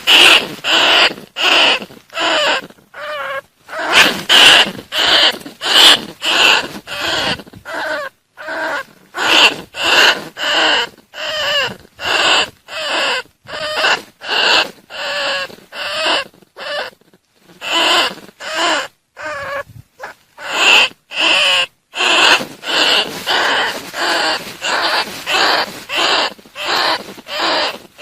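Bandicoot rat squeaking: short, high squeals repeated about twice a second with a few brief pauses. It is a call played as a lure to draw bandicoot rats in for trapping.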